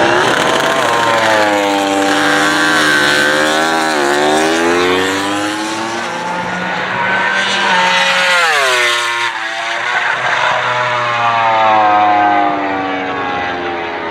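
Racing motorcycle engines at full throttle going past, the revs climbing and dropping through gear changes, with a sharp fall in pitch as a bike passes by about two-thirds of the way through.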